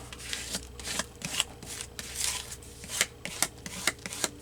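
Paper rustling and rubbing in irregular crinkly strokes as a glued magazine-paper cutout is smoothed down by hand on a journal page.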